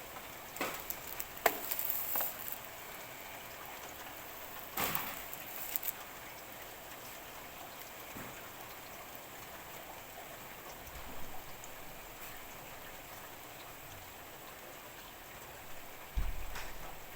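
Steady rain during a thunderstorm, with a few sharp drop hits close by in the first few seconds. There is a sudden low thump near the end.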